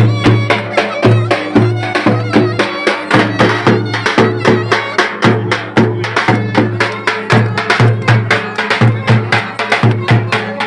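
Live Turkish folk dance music, loud: a drum beating a fast, even rhythm of about three to four strokes a second under a sustained melody instrument.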